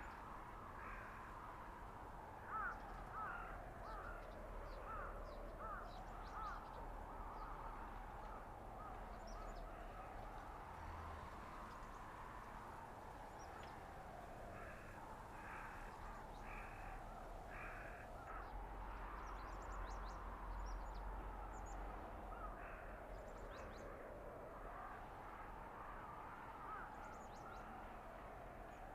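Blizzard wind in a winter forest, howling in a slow rise and fall of pitch every few seconds over a low rumble, with short bird calls scattered throughout.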